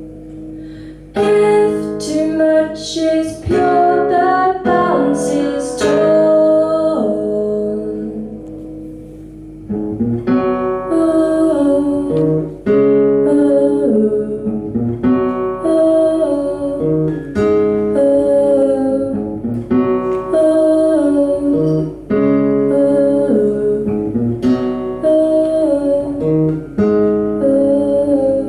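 Live folk music: acoustic guitar with a woman singing. Gliding sung notes in the first part give way, about ten seconds in, to guitar chords struck in a steady repeating pattern.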